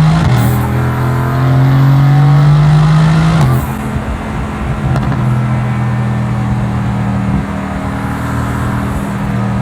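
Mercedes-AMG GT S twin-turbo V8 under acceleration, its pitch climbing steadily for about three and a half seconds. Then a sudden drop in revs with a short crack, as at a gear change, after which the engine runs steadily at lower revs.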